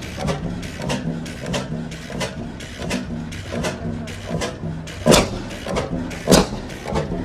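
Oversized single-cylinder two-cycle gas engine running on its governor: a steady train of light clicks as it turns over unfired, broken twice about five and six and a half seconds in by a loud sharp pop, each pop a firing stroke of the cylinder.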